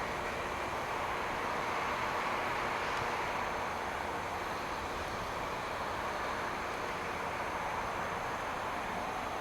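Rail grinding machine working along the track, its grinding wheels on the railhead making a steady, even grinding noise.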